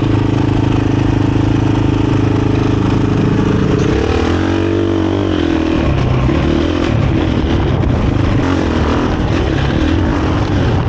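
KTM 500 EXC-F single-cylinder four-stroke dirt bike engine running through a Graves exhaust with its insert fitted, under way at a steady pitch. About four seconds in the pitch drops and climbs back up, as the throttle comes off and back on.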